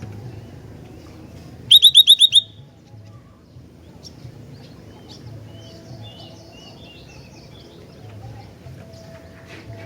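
Bulbul of the kind called gentilang, a kutilang-type songbird, calling. About two seconds in comes a loud, quick run of six sharp chirps, followed by softer scattered chirps and short twittering phrases.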